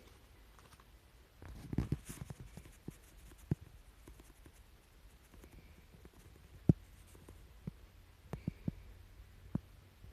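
Handling noises: a brief rustle about two seconds in, then scattered single knocks and taps over a low hum.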